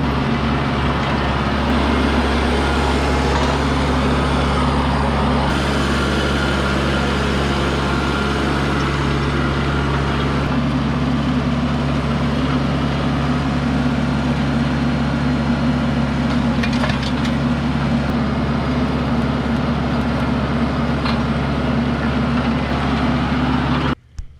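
An engine running steadily at a constant speed with a deep hum. It cuts off suddenly near the end.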